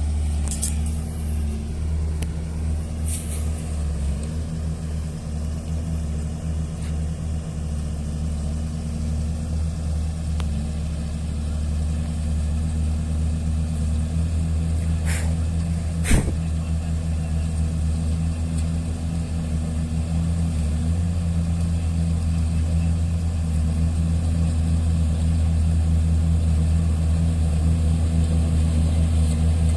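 Heavy diesel engine running steadily under load, its low drone rising slightly in level over time, with a single sharp knock about halfway through.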